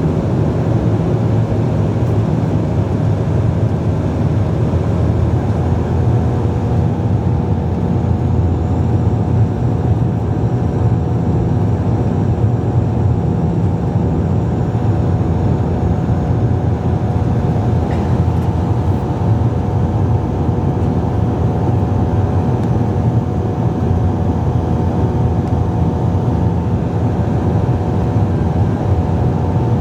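Cabin noise inside a Bombardier Dash 8-Q400 turboprop airliner in flight: the steady drone of its Pratt & Whitney PW150A engines and propellers, with several steady tones over it and a few more joining about six seconds in.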